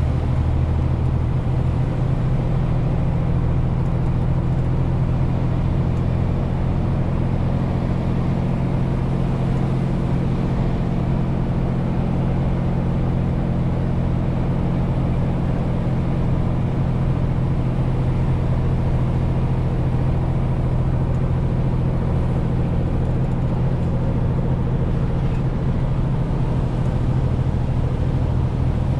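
Renault T520 truck's six-cylinder diesel engine running steadily while the 40-tonne loaded truck is driven along the road, a continuous low drone with tyre and road noise and no gear changes or breaks.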